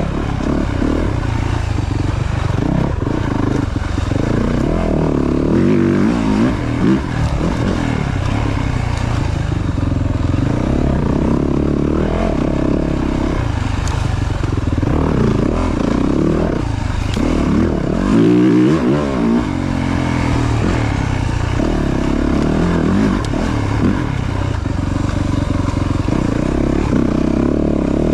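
Yamaha YZ450 dirt bike's four-stroke single-cylinder engine under way, its pitch rising and falling over and over as the throttle is opened and closed.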